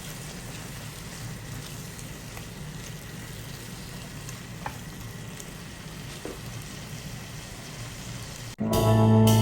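Food sizzling in a pan: a steady hiss with scattered small pops. Guitar music starts abruptly near the end.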